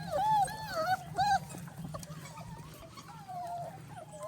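Young puppies whining: a quick run of short, high-pitched, rising-and-falling whines in the first second and a half, then fainter whines.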